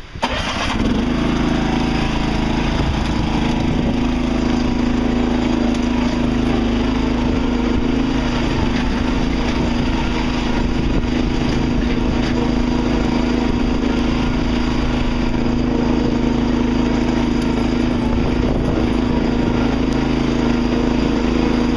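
Riding lawn tractor's small engine catching right at the start and then running at a steady, unchanging speed as it is driven.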